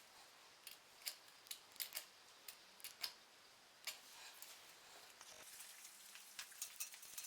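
Scattered light, sharp clicks and taps, about fifteen at irregular intervals, like small parts being handled and fitted during bicycle assembly.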